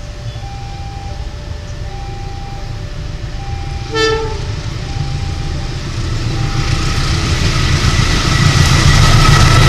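An electronic warning bell rings in a steady two-tone alternation, high then low, about once a second. A diesel locomotive's horn gives one short blast about four seconds in. After that the locomotive's engine and wheel noise grow steadily louder as it approaches, becoming loudest near the end.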